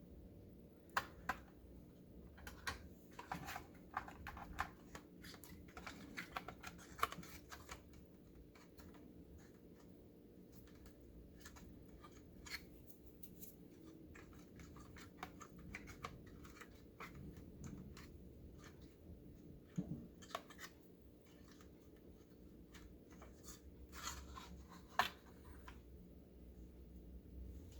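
Irregular clicks, taps and scrapes of plastic oven control-panel parts being handled and fitted, in clusters: busiest over the first several seconds, with a few sharper clicks later on.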